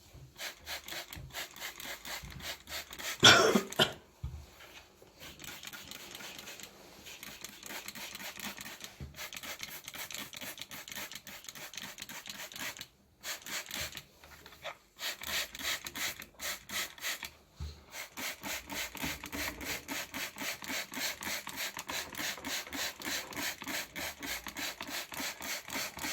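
Rapid back-and-forth scrubbing of a dusty, degreaser-sprayed refrigerator condenser: a rasping rub repeated several times a second, stopping briefly a few times. A loud knock about three seconds in.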